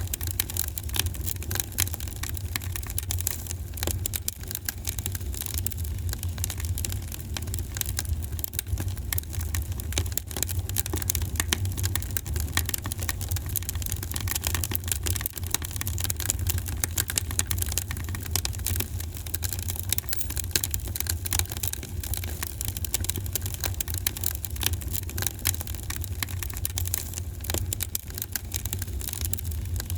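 Wood fire crackling steadily, with many small irregular clicks and pops over a constant low rumble.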